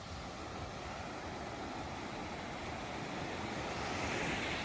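Ocean surf: waves washing on the shore as a steady hiss. A wave swells to its loudest near the end and then begins to recede.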